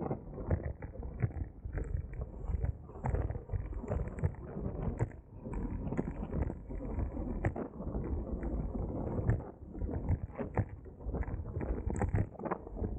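Wind and road rumble from a moving bicycle, with many irregular rattling knocks.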